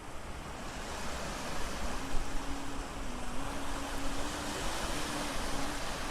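Steady rushing noise that grows a little louder over the first two seconds, with a faint wavering hum underneath.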